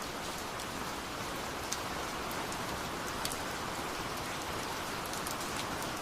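Steady rain falling: an even hiss with now and then a sharper drop tick.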